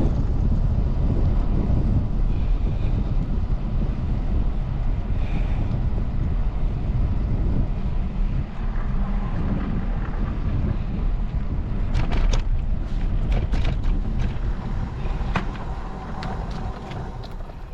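Wind buffeting the microphone while riding a bicycle: a loud, steady low rumble that eases off toward the end. A scatter of sharp clicks and knocks comes in over the last few seconds.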